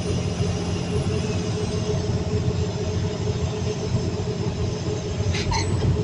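CAT 320D2 L excavator's diesel engine running steadily under hydraulic load, its pump held at pressure that stays the same. A faint high whine sounds over the first second, and a few light ticks come near the end.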